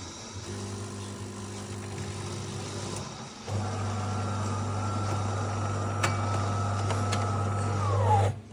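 De'Longhi Magnifica Start bean-to-cup coffee machine running with a low buzzing hum. The hum stops briefly about three seconds in, then comes back louder with a faint whine, which slides down in pitch just before the machine cuts off near the end.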